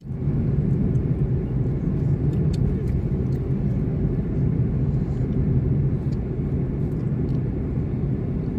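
Steady low rumble of a moving car, the engine and road noise running evenly.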